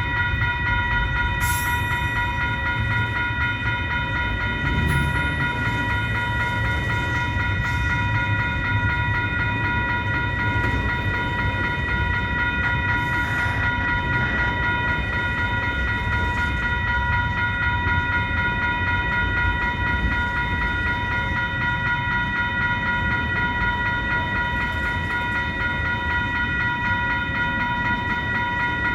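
CN mixed freight train's cars rolling past in a steady rumble, with a few sharp clicks early on and a constant high-pitched whine held throughout.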